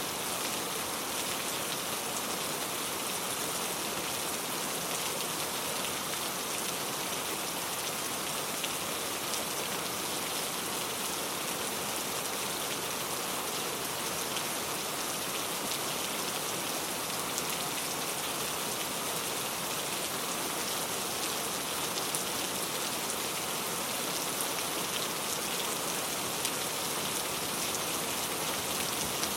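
Steady rainfall, a continuous even hiss with the patter of drops hitting a surface.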